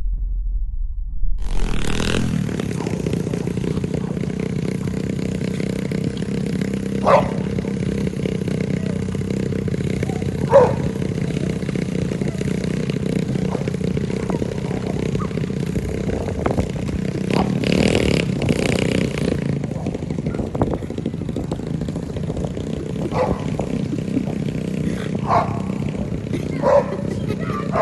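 Motorcycle engine running steadily while riding, starting about a second and a half in, with a dog barking in short bursts a couple of times and then several times near the end.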